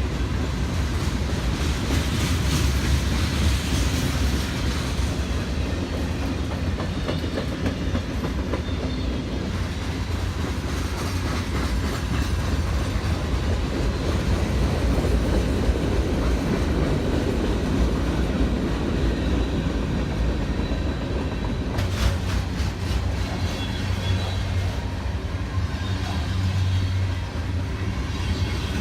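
A train rolling past, its cars clattering steadily over the rail joints with a low rumble, and a few sharper clicks late on.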